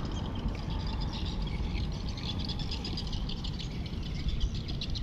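Small birds chirping in quick, irregular runs of short notes over a steady low rumble.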